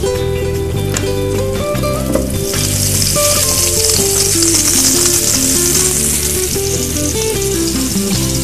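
Small floured meatballs sizzling in hot olive oil in a frying pan; the sizzle gets sharply louder about two and a half seconds in and then holds steady. Background music plays underneath.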